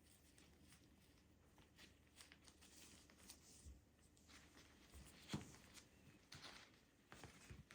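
Near silence in a small room, with faint rustling and small scattered clicks of things being handled, and one sharper knock a little past the middle.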